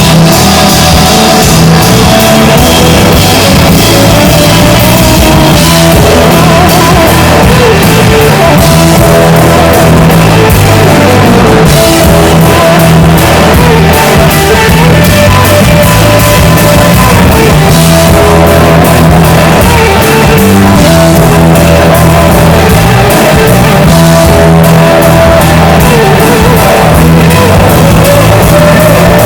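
Live rock band playing loudly, with drum kit, guitar and a singing voice.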